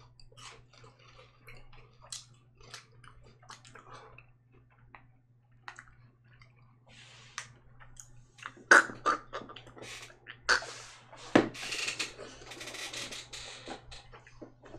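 Two people chewing a crunchy Japanese corn snack, with small crunches and mouth clicks. About two-thirds of the way in, louder breathy mouth and nose noises and one sharp knock take over.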